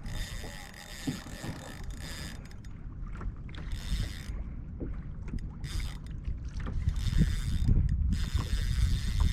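Wind buffeting the microphone on a kayak, an uneven low rumble that grows stronger about seven seconds in, with scattered small knocks and a faint high steady hum that drops in and out.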